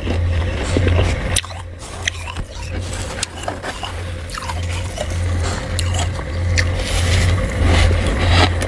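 Crunchy humidifier frost being scraped by hand and bitten: a dense, irregular run of sharp crackles and crunches over a steady low hum.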